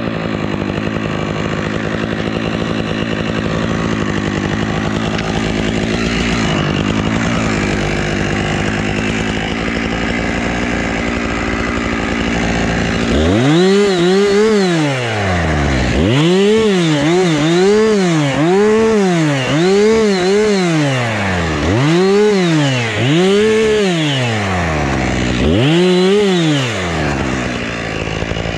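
Husqvarna chainsaw running steadily at high speed, then from about halfway revved up and down repeatedly, roughly once every two seconds, each rev rising and falling in pitch.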